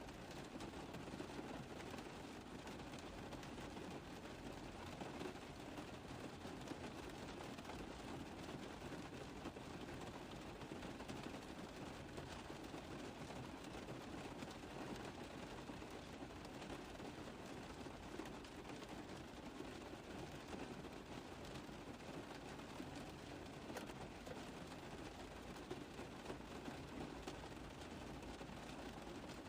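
Rain falling steadily on a car roof: a dense, even run of small drop taps.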